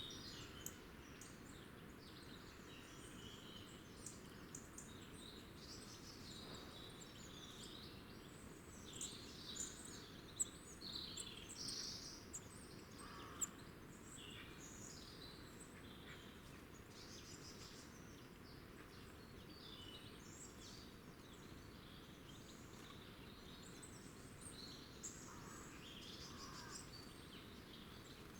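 Small wild birds chirping and calling, many short overlapping calls that are busiest around the middle, over a faint steady low background noise.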